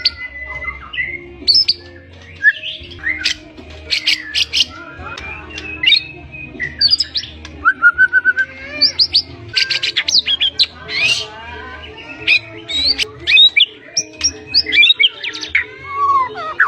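White-rumped shama singing a fast, varied song of loud whistles, sharp rising and falling notes and short trills, packed with phrases mimicked from other birds.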